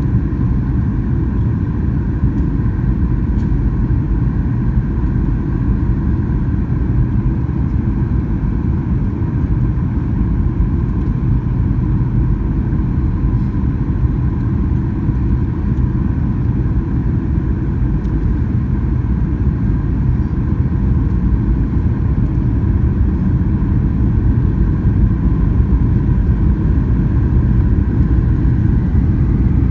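Steady cabin noise inside an airliner in flight: a constant low rumble of jet engines and airflow, with a faint steady hum higher up.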